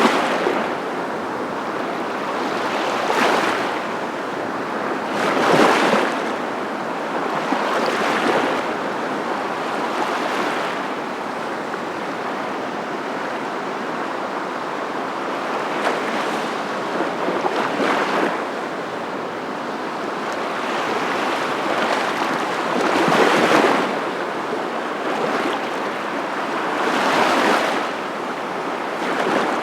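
Ocean waves washing in, a steady rush of surf that swells every few seconds as each wave breaks.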